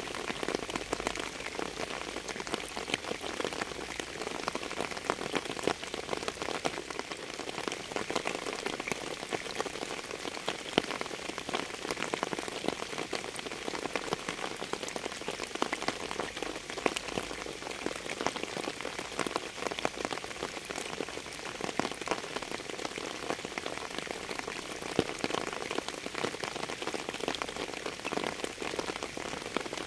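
Steady rain falling on a hard surface, a dense even hiss full of many small individual drop ticks.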